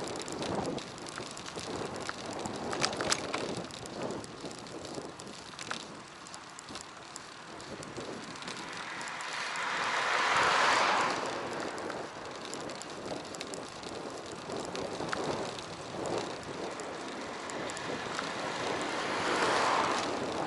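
Riding a bicycle, heard through an action camera's microphone: a steady rush of wind and road noise with scattered small clicks and rattles, and a louder rushing sound that swells and fades about ten seconds in and again near the end.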